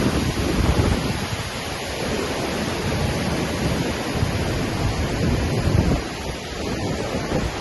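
Waterfall rushing steadily, with gusts of wind buffeting the microphone in an uneven low rumble.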